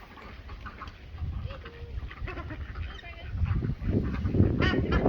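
Farmyard birds calling now and then, with a louder call near the end, over a low rumbling noise.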